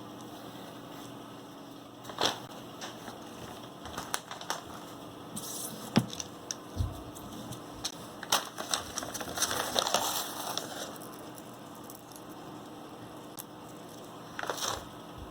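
Handling noises as tire studs and tools are worked by hand: scattered clicks and knocks with rustling, busiest a little past halfway and again near the end.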